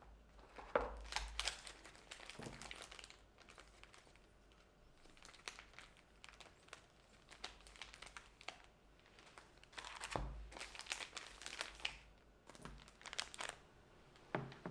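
Paper crinkling and rustling as it is handled, in irregular faint bursts: a first cluster about a second in, then a longer run from about ten seconds in to near the end.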